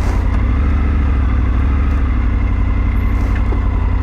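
Motorcycle engine running steadily with an even low drone that holds at one pitch throughout.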